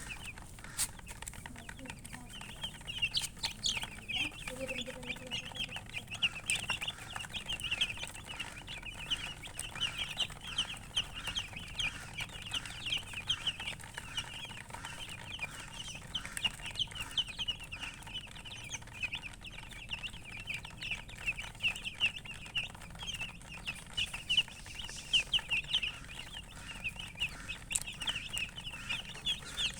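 A group of baby chicks peeping: a dense, continuous chorus of short, high chirps that fills in about two seconds in.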